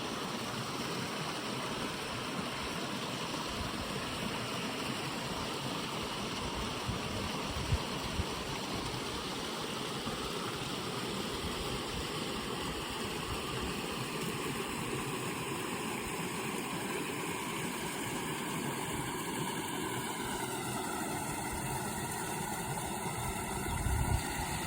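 River water flowing in a steady, even rush, with some low rumbling near the end.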